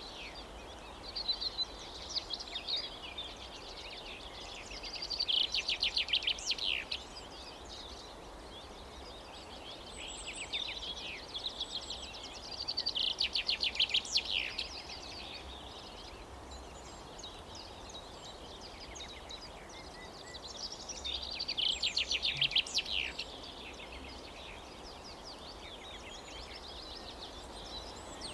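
Songbirds singing in rapid, high trilled phrases, each a second or two long and a few seconds apart, over a faint steady outdoor background.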